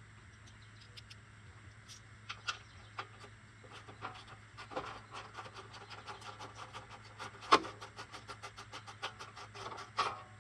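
Ratchet wrench clicking as bolts are turned out of the cover. Scattered clicks at first, then a quick, even run of clicks, several a second, from about halfway in, with a couple of louder knocks.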